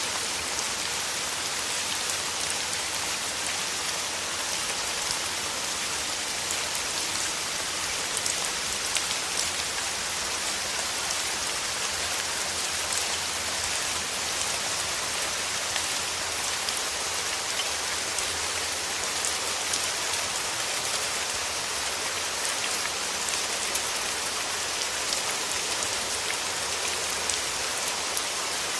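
Steady rain: a dense patter of fine drops over an even hiss, with no let-up.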